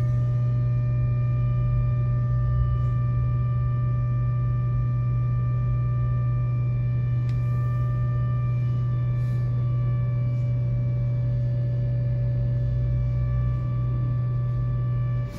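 Steady electrical hum from a tram, a strong low drone with fainter higher whining tones held at one pitch; the low drone cuts out briefly at the very end.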